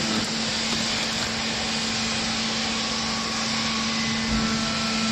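Hydraulic baler's motor and pump running with a steady hum and a constant low tone.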